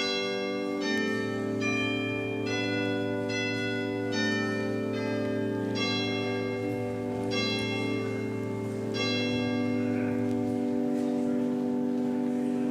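Church organ playing sustained chords under a slow upper melody that moves to a new note about once a second, the bass note dropping out near the end while the final chord is held.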